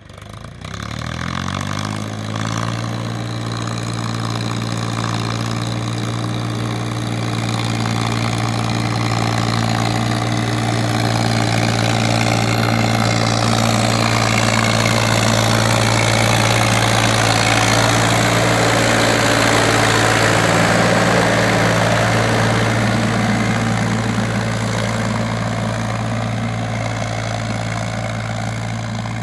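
Powertrac Euro 47 tractor's diesel engine starting up, its pitch climbing over the first couple of seconds before it settles into a steady run.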